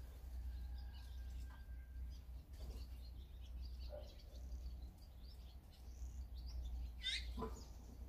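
Small wild birds chirping and twittering, many short high calls scattered throughout, with one louder call sweeping down in pitch about seven seconds in, over a steady low hum.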